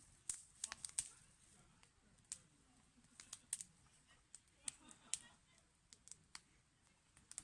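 Wood fire crackling: irregular sharp pops and snaps over a faint hiss, about a dozen of them.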